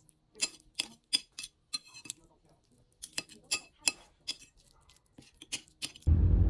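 A run of light, irregular clinks and taps of small hard objects knocking together, about a dozen in all. About six seconds in, the sound cuts abruptly to a loud, steady low rumble.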